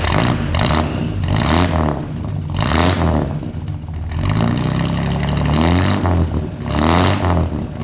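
A car engine revving repeatedly, its pitch rising and falling several times.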